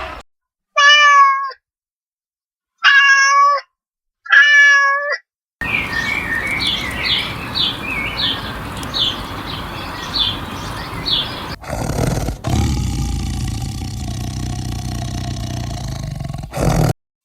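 A cat meowing three times, each call just under a second long and cut apart by silence. Then comes a noisy stretch with a run of short high chirps about twice a second, followed by a steady low hum.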